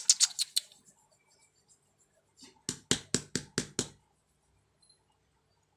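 Rapid sharp clicks or taps in two short runs of about half a dozen each, roughly five a second: one right at the start and another near the middle.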